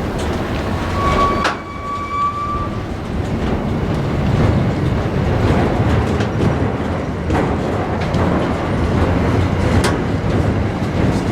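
Train rolling past, with a continuous rumble and wheels clicking over the rails. A brief steady high tone sounds about a second and a half in.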